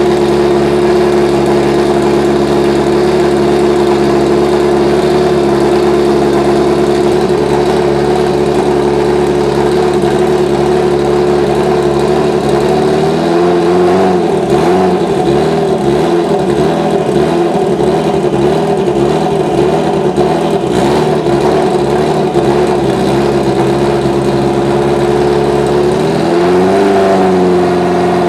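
Subaru Legacy B4 GT300 race car's boxer engine running at a steady speed. About halfway through, its pitch starts wavering up and down for some thirteen seconds, then settles steady again just before the end.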